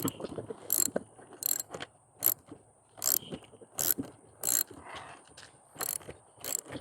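Ratchet socket wrench clicking in repeated strokes, about one every three-quarters of a second, as it loosens a skateboard wheel's axle nut with a 1/2-inch socket.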